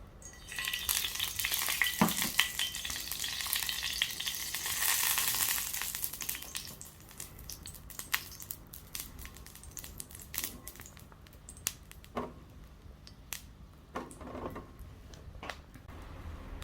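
Food sizzling on a hot iron skillet: a loud hiss sets in about half a second in, then dies down after about six seconds into scattered crackles and pops.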